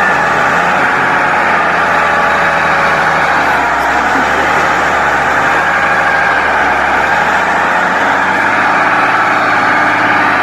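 Tractor engines running, a loud, steady engine noise whose pitch wavers slightly up and down.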